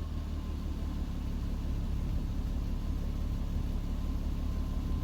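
VW Golf R32's 3.2-litre VR6 engine idling steadily just after a cold start, heard through a newly fitted Milltek resonated cat-back exhaust as a low, even rumble.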